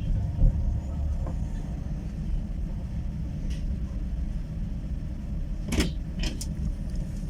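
Steady low rumble of a passenger train running, heard from inside a platzkart sleeper carriage. There is a thump about half a second in and a few sharp clicks just before six seconds in.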